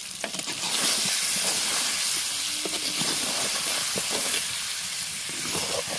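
Peeled raw green mangoes sizzling and hissing in hot mustard oil in a clay pot, stirred with a wooden spatula that knocks and scrapes against the pot. The hiss swells about a second in; it is the water coming out of the mangoes into the oil.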